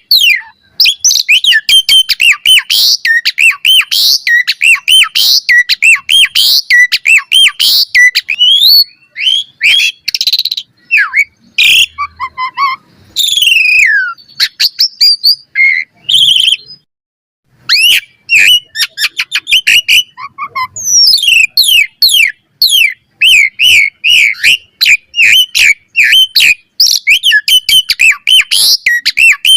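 Asian pied starling (jalak suren) singing a long, fast, varied song of whistles, chatter and sharp clicking notes, broken by a short pause about two-thirds of the way through.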